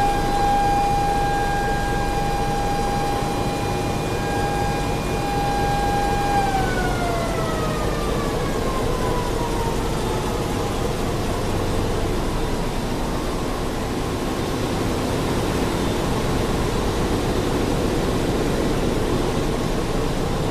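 Ship's engine-room machinery running steadily, with a high whine over the constant machinery noise that holds its pitch for about six seconds, then glides down and fades away.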